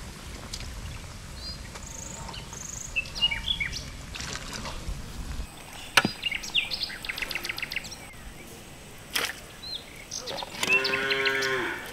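Birds chirping and calling in short high whistles, with a sharp knock about six seconds in and a louder, wavering call near the end.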